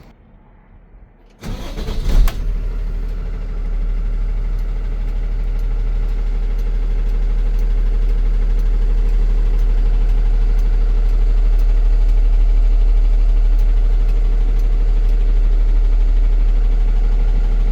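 A 2021 Freightliner M2 106's 6.7-litre Cummins ISB inline-six diesel turning over on the starter briefly, catching about two seconds in, then idling steadily.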